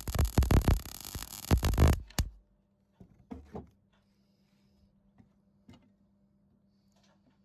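MIG welder arc crackling in rapid, irregular spurts for about two seconds, then cutting off with a knock: a beginner's practice weld run. After it come a faint steady hum and a few light knocks.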